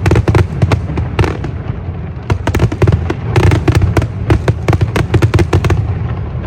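Rapid crackling and popping of fireworks over a heavy low rumble of booms, thinning out near the end.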